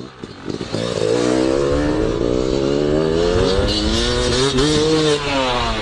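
Motorcycle engine running under way, its pitch slowly rising and falling as the throttle changes; it gets louder about a second in.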